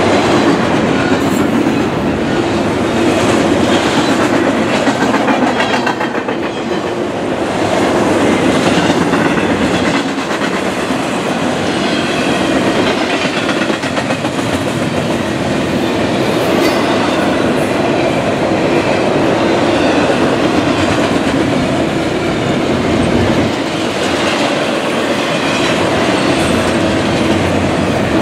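Double-stack intermodal freight train's well cars passing close at speed: loud, steady noise of steel wheels running on the rails, with faint repeated clicks.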